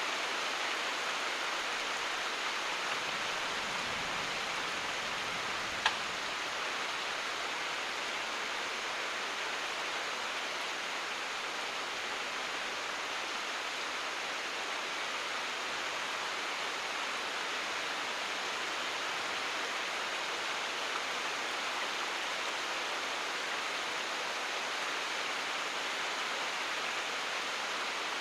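Steady rain falling as an even hiss, with no thunder, and one sharp click about six seconds in.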